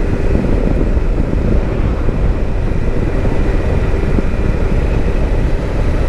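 Kawasaki Versys-X 300 parallel-twin engine running steadily while the motorcycle is ridden, under a heavy, even rumble of wind on the helmet microphone.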